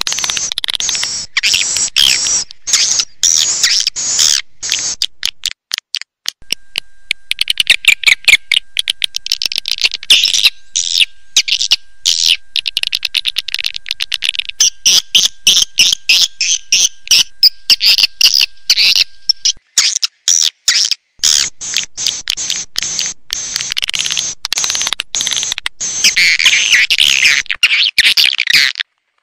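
Swiftlet (walet) call recording: dense, rapid high-pitched twittering and clicking, choppy and broken by short gaps. It is the kind of lure track played to draw swiftlets into a nesting house.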